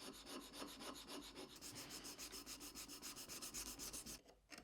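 Quick back-and-forth hand abrading of a canary wood plane body, about six or seven scraping strokes a second, stopping near the end.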